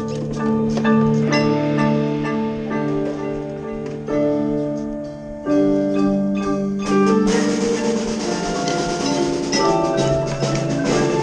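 Marching percussion ensemble performing: mallet keyboard notes over long held pitched tones, with drum strokes that grow denser about seven seconds in.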